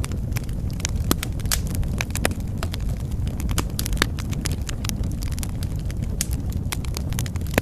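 Wood fire burning in a fireplace: a steady low rumble of flames with frequent irregular crackles and snaps, and one louder pop near the end.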